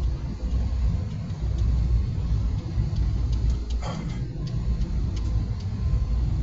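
Airliner cabin noise in flight: a steady low rumble of engines and airflow, with a brief sharper sound about four seconds in.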